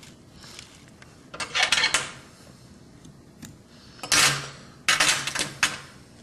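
Fly-tying tools and thread handled at the vise during a whip finish: short bursts of clattering and scraping, about a second in, then twice more from about four seconds in.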